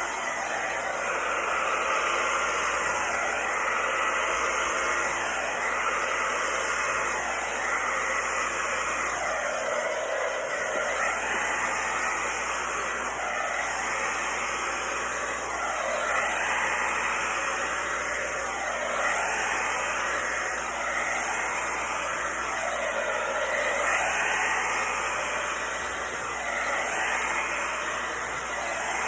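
Heat gun blowing hot air steadily, its tone swelling and dipping every three seconds or so.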